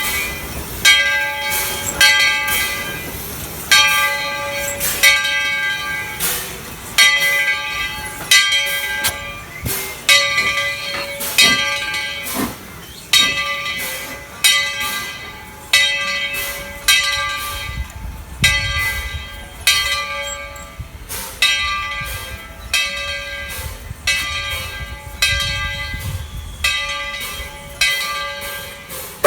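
Steam locomotive bell on Tweetsie Railroad No. 12 ringing steadily, about one stroke every second and a bit, each stroke ringing on. A low rumble joins about halfway through.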